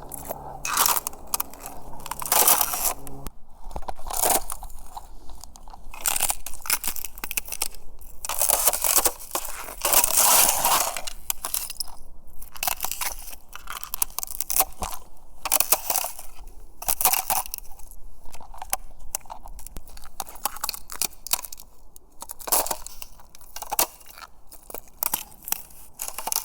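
Footsteps crunching through snow, with one crisp crunch roughly every second at an uneven walking pace.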